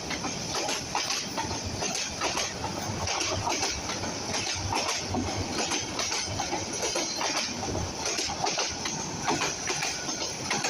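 Commuter train passing, its wheels clattering over the rails with many sharp clicks above a steady rushing rumble.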